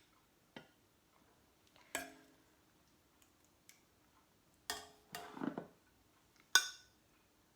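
A large serving spoon knocking and scraping against a pan as chicken curry is spread out, a handful of separate clinks and knocks, one leaving a short ring, with the loudest knock near the end.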